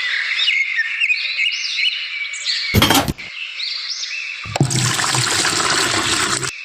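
Water gushing and splashing from a miniature hand water pump in the second half, after a stretch of high, repeated chirping sounds and a brief loud burst of noise about three seconds in.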